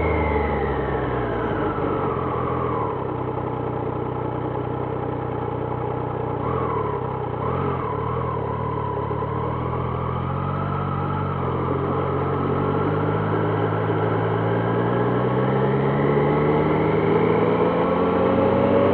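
Triumph Trident 660's three-cylinder engine heard from the rider's seat: its note falls over the first few seconds as the bike slows, runs low and even through the middle, then climbs steadily as it accelerates away.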